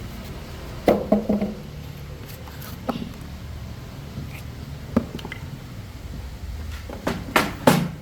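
Sharp knocks and clanks from work on parts, in a quick cluster about a second in, single knocks near three and five seconds, and three in quick succession near the end, over a low steady hum.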